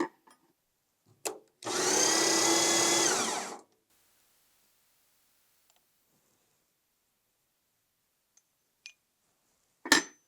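A power tool runs for about two seconds, starting and stopping abruptly, with a few light clicks before and after.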